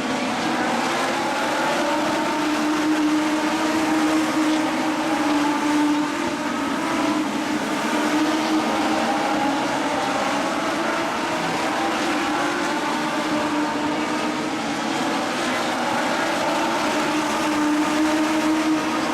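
Several Legends race cars' Yamaha motorcycle engines running at high revs together, their pitches rising and falling over one another as the pack laps the oval.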